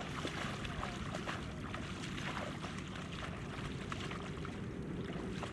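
Water sloshing and trickling with many small, irregular splashes.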